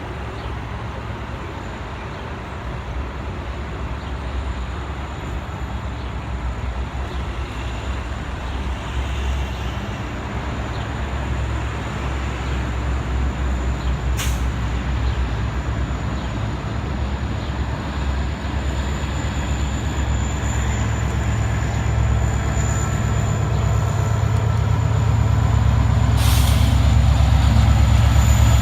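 Diesel-electric locomotive of the TCDD DE 33000 class running with a steady low engine drone that grows steadily louder. Two brief sharp clicks come about halfway through and near the end.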